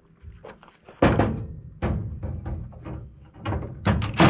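Scrap metal parts knocking and clanking as they are handled and set down: a sharp knock about a second in, a few more scattered knocks, and a quick cluster near the end, the loudest of them at the very end.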